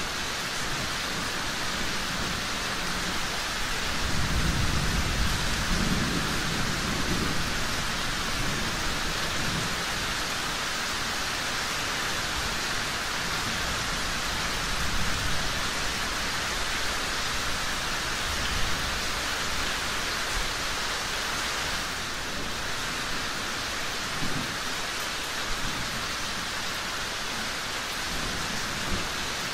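Steady heavy rain, with a low rumble of thunder rolling in about four seconds in and fading over several seconds, and a fainter rumble later on.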